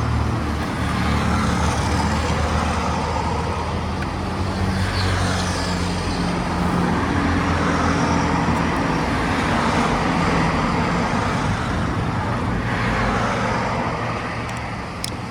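Small motorbike engine running steadily while riding, with wind and road noise rushing over the phone's microphone.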